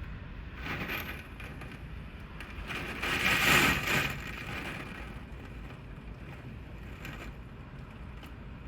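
Typhoon wind gusting and rushing, with a stronger gust swelling about three seconds in and then easing.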